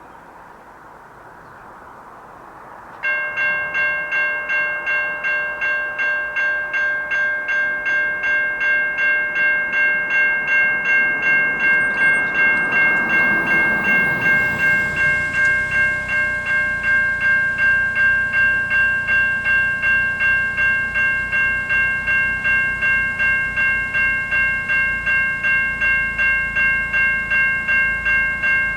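Electronic level crossing bells (Safetran and Siemens Type 3) start suddenly about three seconds in and ring steadily at about two strikes a second, the crossing's warning that a train is approaching. A road vehicle passes about midway.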